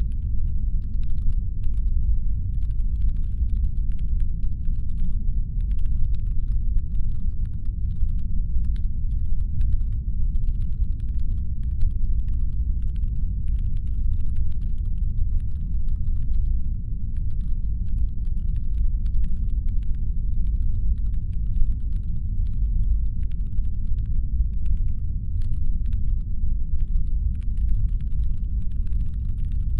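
Steady, deep brown-noise rumble standing in for a spaceship's engine hum, with faint, irregular clicking scattered through it.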